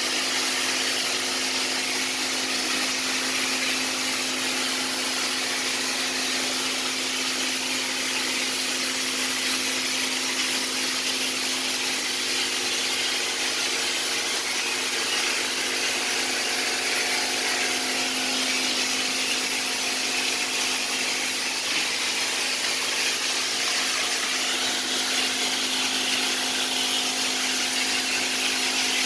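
An electric power tool's motor running steadily, a constant hum with a hiss over it.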